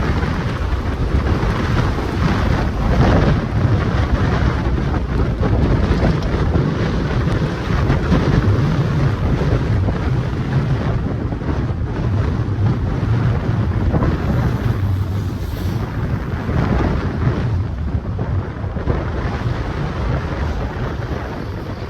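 Strong, gusty wind buffeting the microphone: a loud, deep rumbling rush that surges with each gust.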